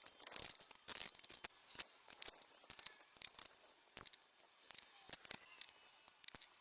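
A quick, irregular run of light clicks and scrapes, a few each second.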